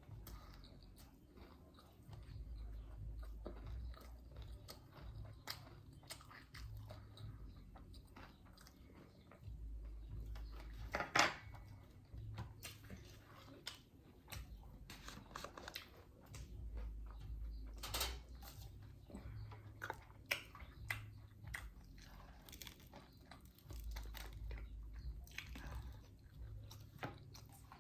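Close-miked chewing of food, with soft mouth sounds and many small clicks. Two louder sharp clicks stand out, one near the middle and one a few seconds later.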